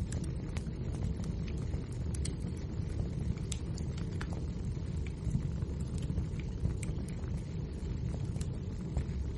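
Wood fire burning in a fireplace: a steady low rumble of the flames with irregular sharp crackles and pops from the logs, a few each second.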